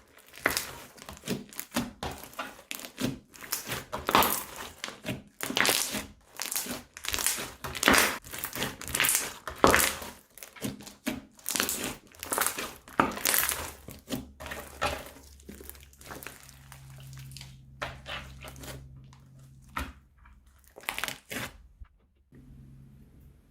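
Slime being squeezed and pressed by hand, with irregular crinkling, crackling squishes. They come thick and fast, then thin out after about fifteen seconds.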